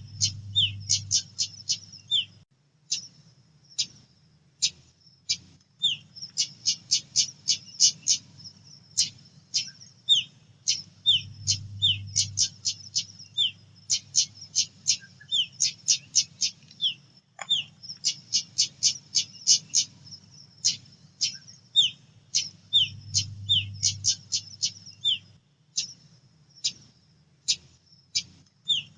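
Female pied bushchat calling: runs of rapid, dry clicking chips mixed with short down-slurred whistled notes, over a faint low hum.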